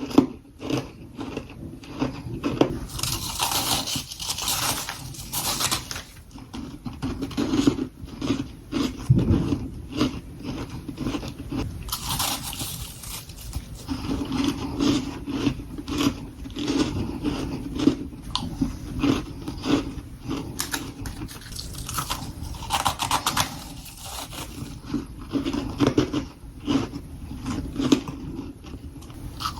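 Close-miked biting and chewing of powdery freezer frost: dense, rapid crunching and crackling, with three stretches of brighter, hissier crunching a few seconds long, about 3, 12 and 22 seconds in.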